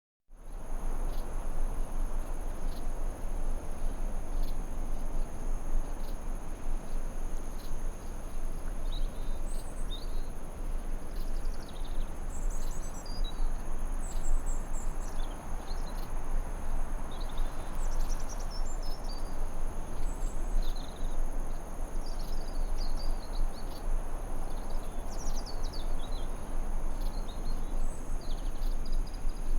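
Forest ambience: a steady insect drone holding two constant high pitches over an even low rushing hiss, with songbirds chirping and twittering in short high phrases from about nine seconds in.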